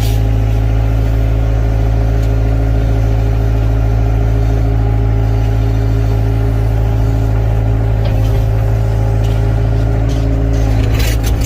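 Excavator's diesel engine running at a steady speed, with a few knocks or clatter near the end.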